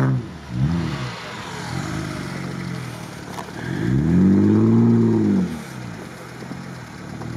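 Off-road vehicle engine revving under load as it works in snowy mud ruts. It gives a short rise and fall about half a second in, and a longer, louder rev about four seconds in that falls away after about a second and a half.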